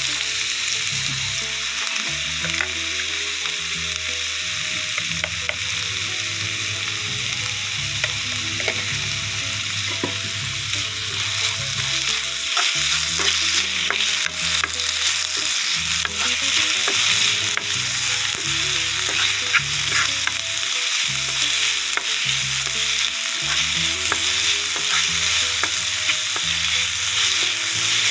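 Sliced onion, tomato and green chillies sizzling in hot coconut oil in a pan, stirred with a wooden spatula that scrapes and clicks against the pan now and then. The sizzle grows louder about halfway through.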